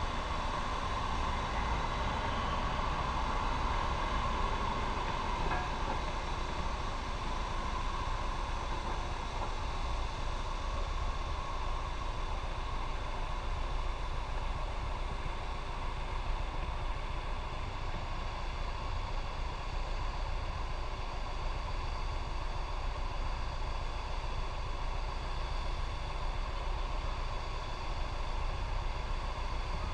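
Motorcycle riding along the road, a steady drone of engine and road noise with no clear change in speed.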